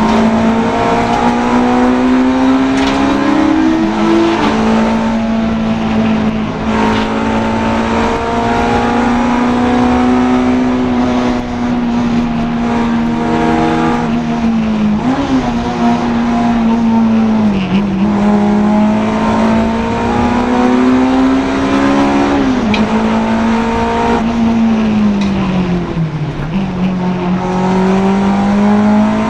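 Honda Integra DC2 race car engine running hard at high revs. Its pitch climbs and then drops sharply at gear changes, around four seconds in and again later, with several short dips as it comes off the throttle and picks up again.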